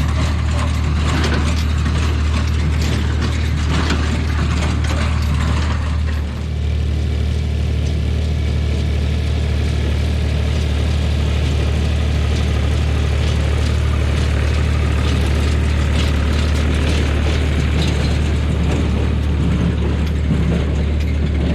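Ford 3000 tractor engine running steadily as it pulls a Massey Ferguson No. 12 square baler, with the baler's mechanism clattering busily over the engine's low hum.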